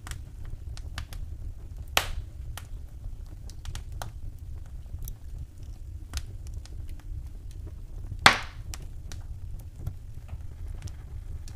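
Wood fire crackling in a fireplace: scattered small snaps, with two loud sharp pops about two seconds in and again about eight seconds in, over a low steady rumble.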